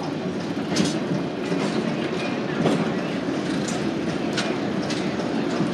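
Train running on jointed rail: a steady rolling rumble, with a few sharp clicks as wheels pass over rail joints.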